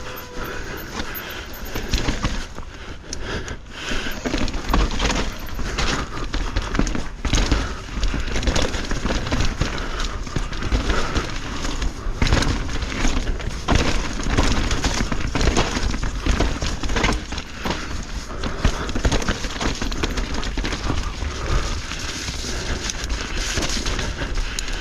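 Mountain bike riding over rough trail: tyres rolling on dirt, roots and rocks, with frequent knocks and rattles from the bike over a steady low rumble.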